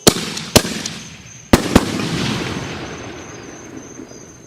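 Excalibur canister shell fireworks going off: four sharp, loud bangs in quick pairs within the first two seconds, followed by a long crackling that slowly fades away.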